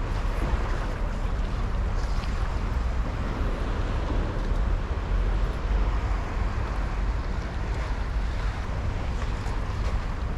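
Wind buffeting the microphone, a steady rushing noise with an uneven low rumble.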